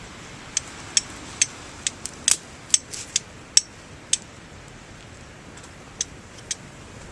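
Steel fire striker being struck against a piece of rhyolite, a series of sharp, irregular clicks: about a dozen in quick succession, then two more near the end. These are strikes meant to throw sparks onto char cloth.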